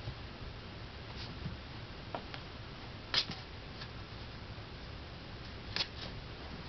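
Chihuahua puppy scuffling about, making light clicks and scratches now and then over a low steady hum. The two clearest clicks come about three and about six seconds in.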